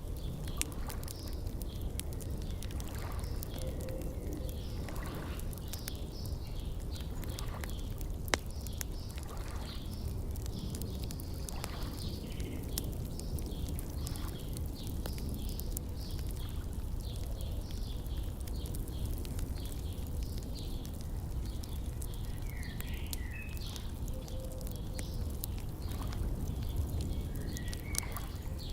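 Wood fire crackling with scattered sharp pops over a low steady rumble, one louder pop about eight seconds in. Birds chirp now and then in the background.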